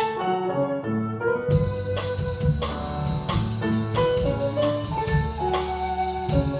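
A small band playing an instrumental intro with a melody of held notes. About a second and a half in, bass and drum kit join with a steady beat.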